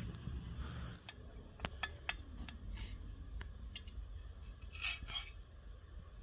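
Quiet, scattered clicks and a few short scrapes of a metal spatula against a frying pan over a campfire, with a low steady rumble underneath.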